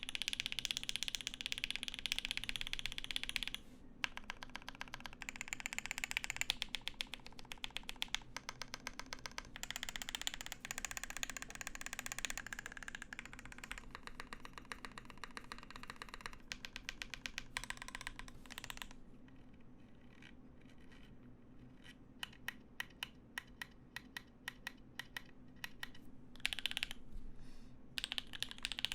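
Typing on a Percent Studio Skog-Reboot prototype mechanical keyboard: fast runs of clacking keystrokes, easing about two-thirds of the way through into slower single key presses, then fast typing again near the end.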